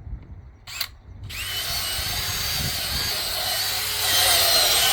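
Drill spinning a scrub brush over soap-soaked carpet. It starts about a second in with a whirring motor whine and a scrubbing hiss, and gets louder near the end.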